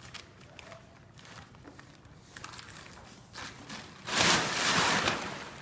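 Plastic tarp rustling as a horse moves it, then a loud crackling flap about four seconds in that lasts about a second.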